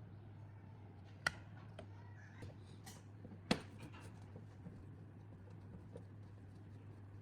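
Two sharp clicks about two seconds apart and a few light taps from hand work on the fan's parts, over a low steady hum.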